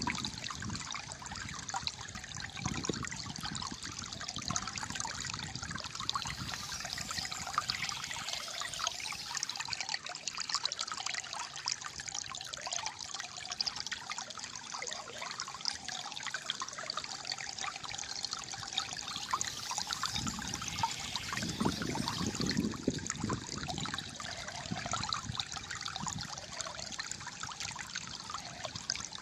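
Flowing water trickling and gurgling steadily, with a deeper gurgling swell about 21 seconds in.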